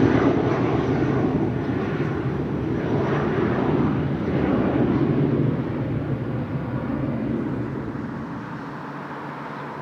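Jet airliner engines rumbling as the plane passes, the sound slowly fading away.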